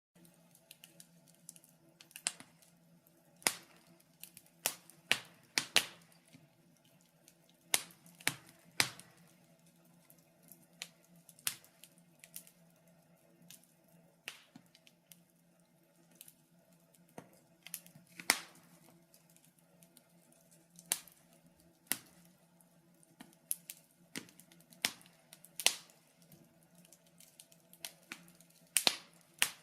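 Fireplace fire crackling, with sharp irregular pops and snaps every second or so over a faint steady low hum.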